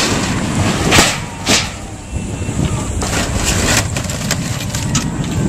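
A building being torn down by heavy machinery: a steady engine rumble under loud cracks and crashes of breaking wood and falling debris, with two sharp bangs about a second and a second and a half in.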